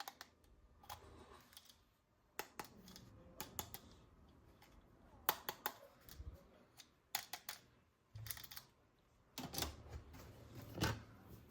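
Irregular clicks and taps of hard plastic toy parts being handled, some in quick clusters, with a few soft thumps.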